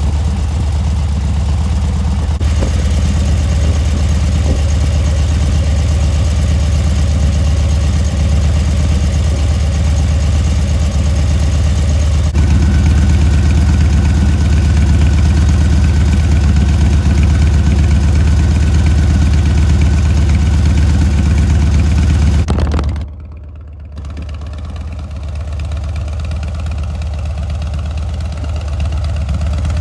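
Harley-Davidson Dyna Street Bob's V-twin engine idling steadily. The sound drops sharply for about a second roughly three-quarters of the way through, then builds back up.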